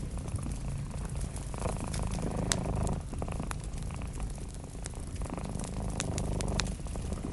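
A cat purring steadily in a low rumble that swells with its breathing, twice in this stretch, over a crackling wood fire with scattered sharp pops.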